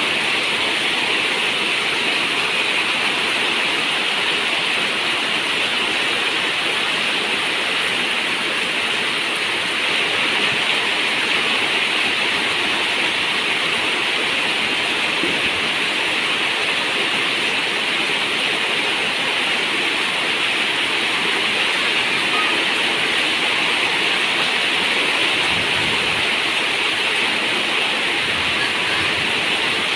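Rain falling steadily on a zinc roof, a dense, even hiss that does not let up.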